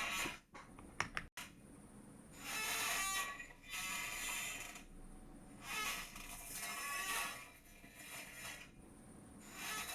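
A chair creaking and squeaking under someone's weight: a few sharp clicks about a second in, then a series of drawn-out, wavering squeaks, each lasting up to a second or so.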